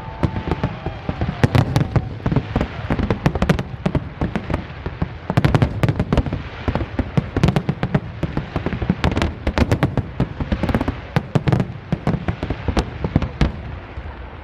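Fireworks display: a dense, rapid run of sharp bangs and crackles over a low rumble of booms.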